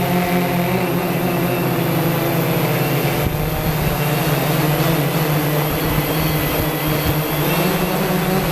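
Quanum Nova quadcopter's electric motors and propellers running in flight: a steady buzzing hum for about three seconds, then wavering in pitch as the throttle changes, over a rush of air noise.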